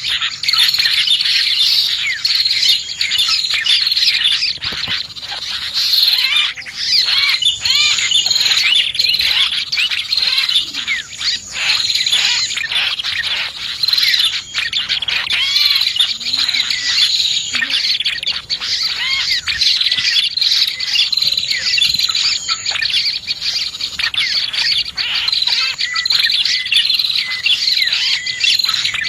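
A dense, continuous chorus of small birds chirping and twittering rapidly: a bird-lure recording of prenjak (prinias) and other small birds. A high, thin buzzing tone comes and goes every few seconds above the chirping.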